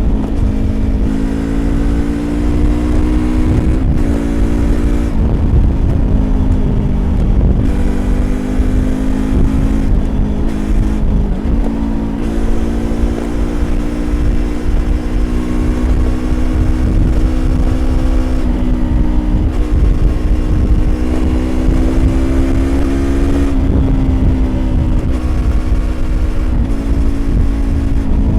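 Yamaha YZF-R25's 250 cc parallel-twin engine running under way through an aftermarket Prunus exhaust, its pitch slowly climbing and then briefly dipping and picking up again several times, about four seconds in, around eleven seconds and near the end. A heavy low rumble of wind and road noise runs under it.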